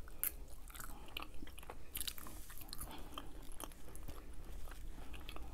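A person chewing a forkful of food close to a clip-on microphone: soft, irregular mouth sounds with many small clicks.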